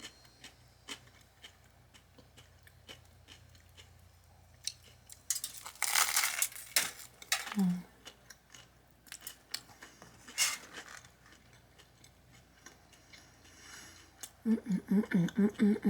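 Close-miked eating: small wet chewing clicks throughout, with two loud crunching bites into a toasted eggplant parmesan sandwich, about six seconds in and again about ten seconds in.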